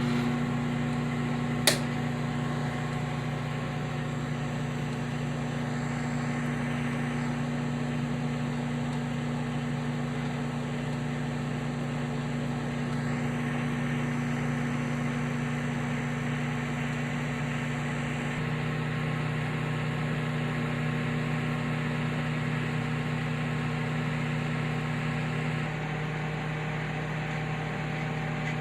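Microwave oven running with a steady hum, heating a bowl of eggs in water; a single sharp click sounds about two seconds in.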